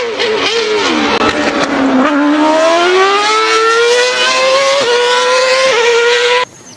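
Race car engine sound effect for a Formula One car: a high engine note that drops in pitch over the first two seconds, then climbs steadily with two brief dips like gear changes, and cuts off abruptly near the end.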